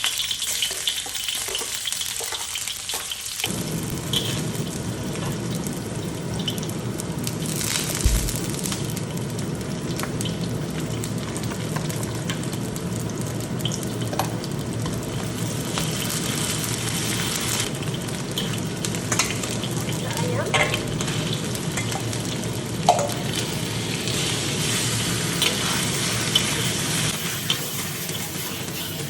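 Onions sizzling as they fry in hot oil in a pan, with scattered clicks and scrapes of stirring. The sizzle grows fuller about three and a half seconds in.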